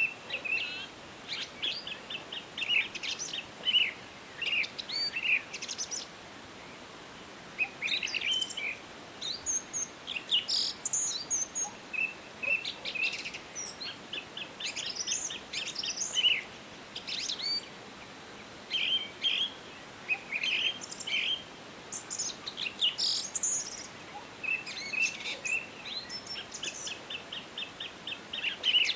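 Several songbirds singing and chirping, with short calls and fast trills overlapping, over a faint steady hiss of forest background.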